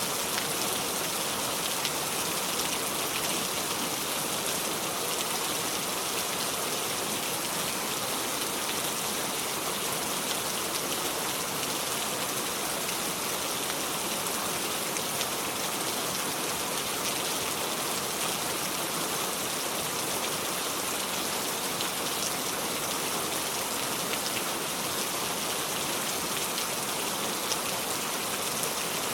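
Steady heavy rain falling, an even hiss with fine drop patter and no thunder.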